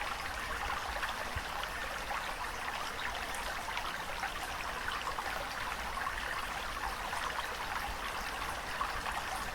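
Steady running water with a fine trickling, splashing crackle, even in level without the rise and fall of breaking waves.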